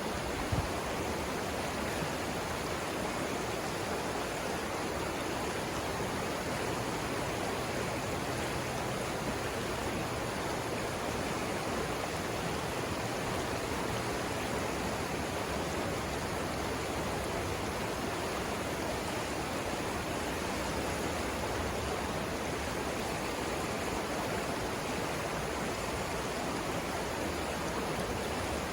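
Savannah River water rushing over rapids: a steady, even roar of flowing water.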